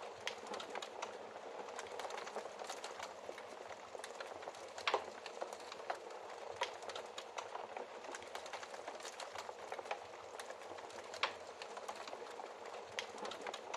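Wood fire burning in a fireplace: a steady hiss with constant small crackles and a few louder pops, about five seconds in, near the middle, and around eleven seconds.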